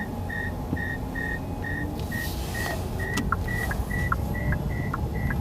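Electronic warning beep inside an electric car's cabin, repeating about two and a half times a second, its pitch creeping slowly upward, over the low rumble of the car on the road.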